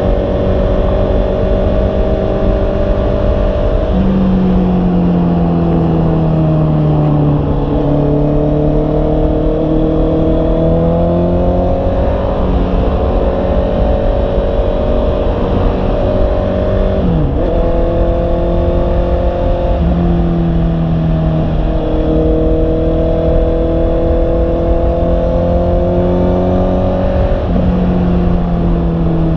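Honda CB650R's inline-four engine running on the move, its note climbing and sagging slowly with the throttle and jumping up sharply a few times. Steady low rush of wind noise underneath.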